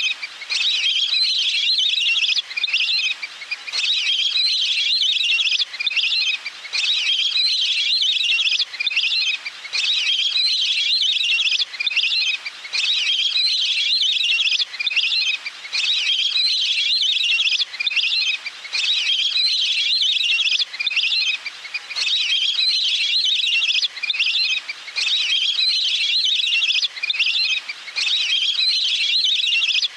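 Recorded calls of a flock of wild ducks played back as a hunting lure: dense, high whistling chatter coming in bursts of one to three seconds with short breaks between.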